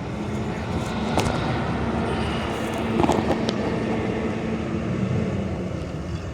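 Steady low mechanical rumble with a faint hum, and a few light clicks about a second in and again about three seconds in.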